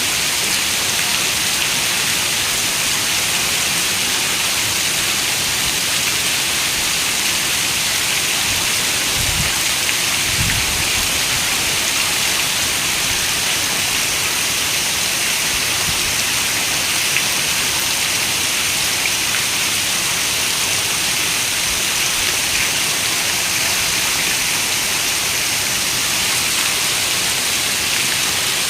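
Steady rain falling, an even hiss of many raindrops. Two brief low thumps come about nine and ten seconds in.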